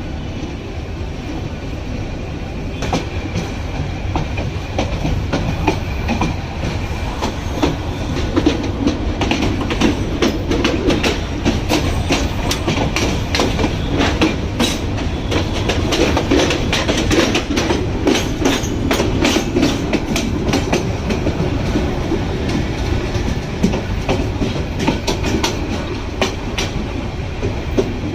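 A train running on the rails: a steady rumble with a rapid clickety-clack of wheels over the rail joints.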